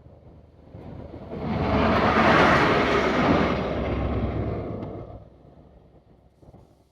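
A vehicle passing close by: a rushing noise with a low rumble that swells about a second in, is loudest for a couple of seconds, then fades away.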